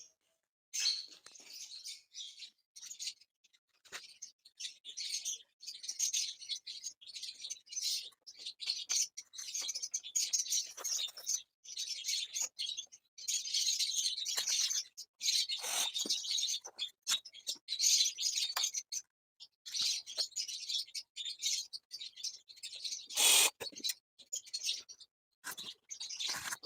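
Small birds chirping and chattering rapidly and almost without pause, high-pitched, with one louder, sharper call near the end.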